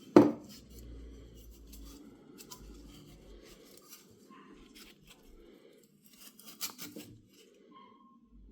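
Workbench handling sounds: a sharp knock just after the start, then light scattered clicks and scrapes, and a short cluster of clicks about two-thirds of the way through.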